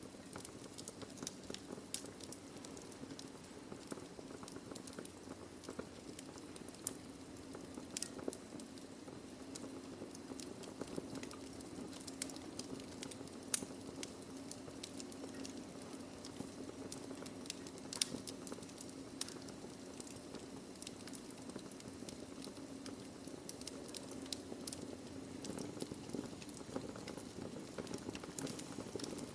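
Wood fire burning in a fireplace: steady soft hiss under frequent irregular crackles and pops from the burning logs, with a few sharper pops standing out.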